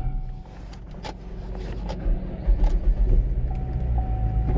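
Tow truck engine running low, with scattered clicks and knocks; the rumble grows louder from about two seconds in.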